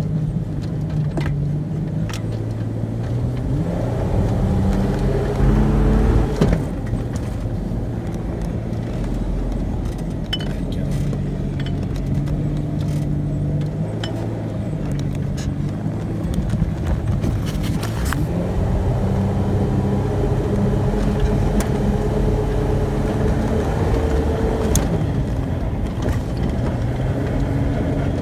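Four-wheel drive's engine heard from inside the cabin as it pulls through soft beach sand, its note climbing and dropping back twice, around five seconds in and again between about eighteen and twenty-five seconds. Occasional light clicks and rattles from the cabin.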